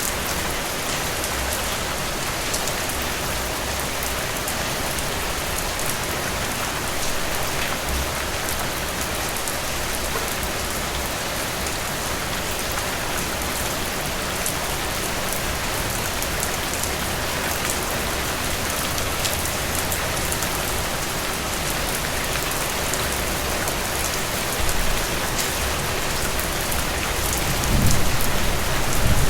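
Steady rain falling: a dense, even hiss dotted with fine drop ticks. Near the end a low rumble swells in under it.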